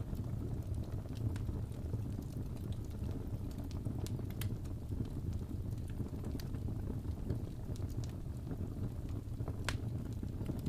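Wood fire crackling in a fireplace: a steady low rumble of flames with scattered sharp pops and snaps.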